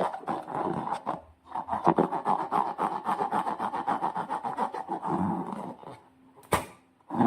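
Slime being squeezed and worked by hand, a dense run of wet clicking and crackling, with a sharp snap near the end.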